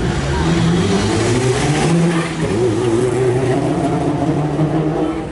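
Rally car engine revving hard, its pitch wavering up and down as the car is driven around a tight turn, with a short dip about two seconds in.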